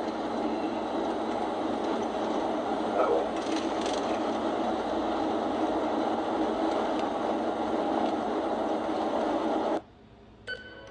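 Steady road and engine noise inside a moving police cruiser, as picked up by its dashcam audio; it cuts off suddenly near the end.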